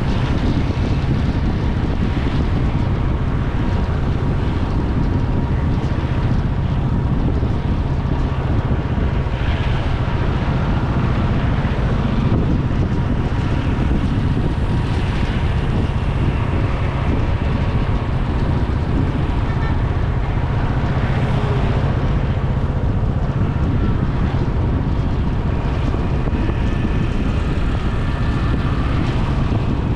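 Steady wind rush over the microphone of a camera on a moving motorcycle, with vehicle and road noise underneath.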